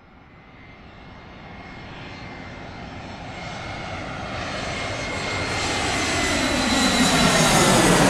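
Airplane approaching overhead: engine noise growing steadily louder, with a steady high whine over a broad rush, reaching its loudest near the end as it comes close.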